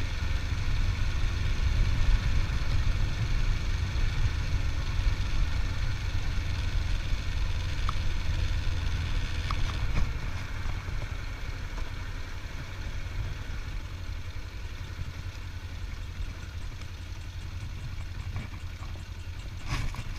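A 25-year-old motorcycle's engine running steadily with a low rumble, a little quieter from about ten seconds in.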